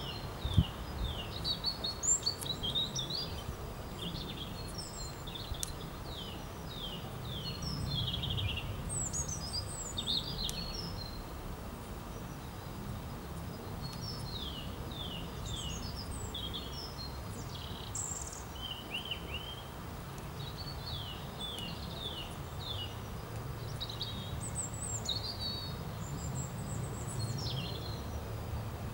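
Songbirds singing: many short chirps and quick downward-sweeping notes, repeated throughout, over a steady low outdoor rumble. A couple of brief thumps come in the first two seconds.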